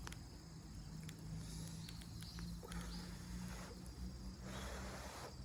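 A person slurping miso-stewed udon noodles: a couple of noisy slurps, one about a second and a half in and another near the end, with a few small clicks in between.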